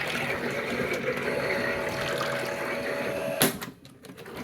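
Theo Klein Miele W1 toy washing machine running its wash cycle with water in the drum: a small motor hum and water churning. A sharp click about three and a half seconds in, then the motor goes briefly quiet as the drum stops before reversing.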